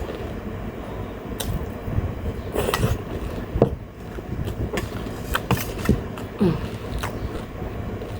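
Close-up mukbang eating sounds: chewing and crunching of wai wai sadeko noodles and momo, with scattered clicks, over the steady noise of an electric fan.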